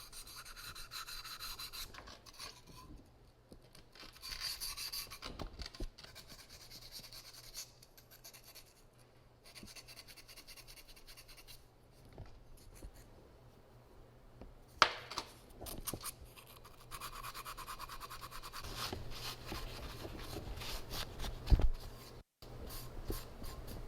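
Intermittent rubbing and scraping on a mended ceramic piece during kintsugi lacquer work, in stretches of a few seconds, with a couple of sharp knocks.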